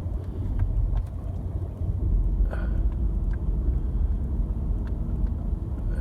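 Steady low rumble of a pickup truck's engine and road noise, heard from inside the cab while driving.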